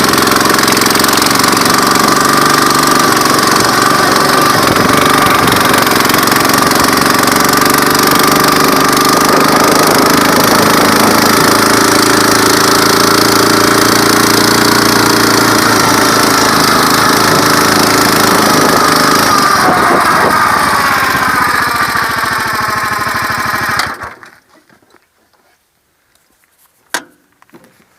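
Honda GX390 single-cylinder four-stroke engine of a mini tractor running steadily, its pitch wavering slightly. Near the end its pitch sags and the sound stops abruptly, followed by a single sharp click.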